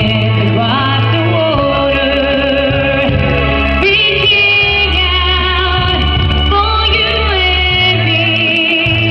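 Live music: a singer, plausibly female, with band accompaniment, long held melody notes with vibrato over steady bass notes that change every second or two.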